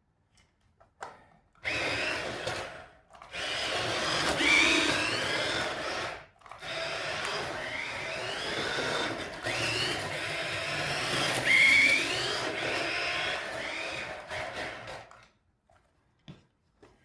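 Small electric motor and plastic gear train of a toy RC drift car running under throttle, whining up in pitch again and again as it is blipped. It starts about a second and a half in, cuts out briefly twice and stops shortly before the end.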